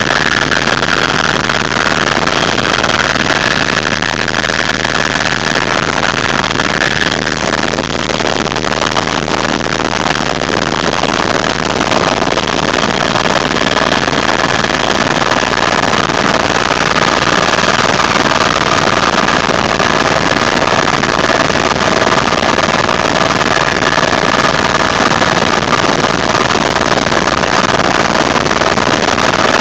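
Tour helicopter in flight: loud, steady engine and rotor noise with a faint steady whine.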